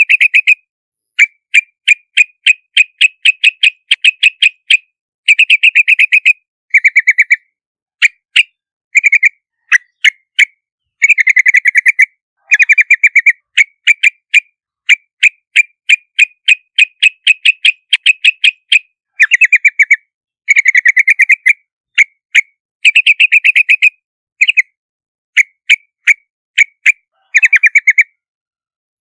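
Yellow-vented bulbul (Pycnonotus goiavier) calling: runs of short, bright chirping notes, several a second, in bursts of one to two seconds with brief gaps between them.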